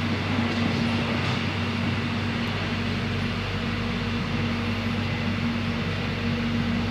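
Steady cabin noise inside a moving electric airport train carriage: an even rumble of running noise with a constant low hum and tone underneath, unchanging throughout.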